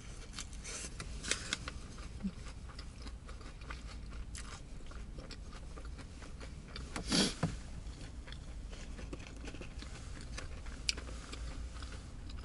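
Close-up mouth sounds of a person chewing a sandwich: soft, wet clicks and small crunches. There is one brief, louder noise about seven seconds in.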